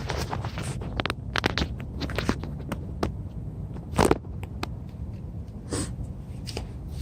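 Dodge Dakota R/T's 5.9-litre V8 idling while it warms up, a steady low rumble. Over it come scattered clicks and handling knocks, with one louder knock about four seconds in.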